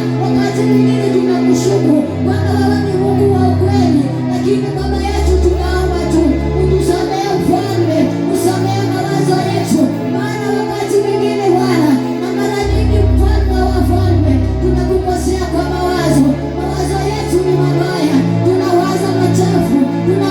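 Worship music: singing over held chords and a bass line that changes note every few seconds.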